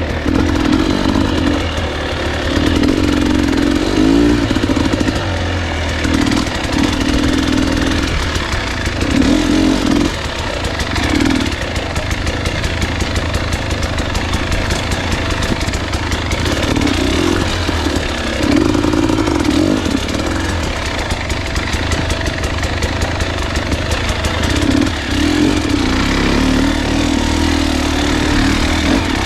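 Husqvarna enduro dirt bike engine being ridden, the throttle opened and rolled off again and again so the engine note rises and falls every second or few seconds.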